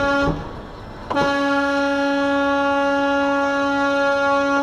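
Vehicle horn sounding one steady note: a blast that stops just after the start, then, about a second in, a long held blast of over three seconds.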